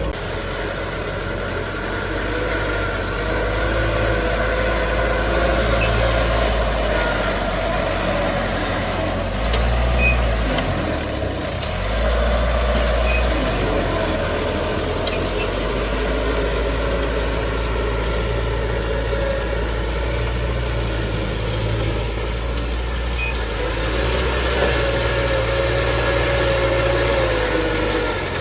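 Heavy diesel earthmoving machinery, a bulldozer at work, running steadily, with a wavering higher whine over the low engine drone.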